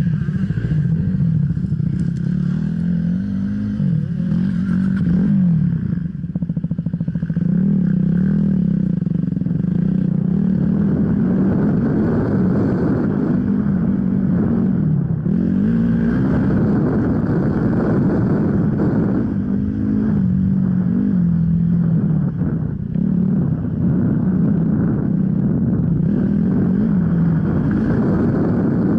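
Off-road enduro motorcycle engine running, its revs rising and falling again and again as the throttle is worked.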